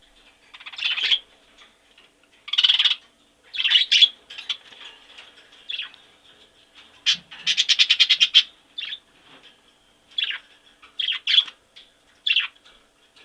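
A bird calling: a series of short, high calls with gaps between them, and a quick rattling run of a dozen or so notes about halfway through.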